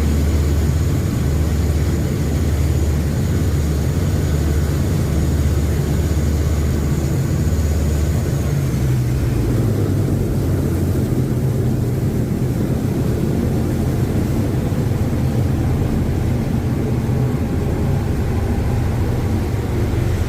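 Steady low drone of a Thames river bus's engines heard on board while under way. A faint thin high whine fades out about nine seconds in.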